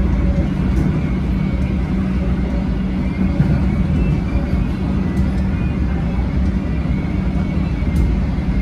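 Melbourne Metro electric suburban train running at about 115 km/h, heard from inside the carriage: a steady, loud rumble of wheels on track with a constant low hum.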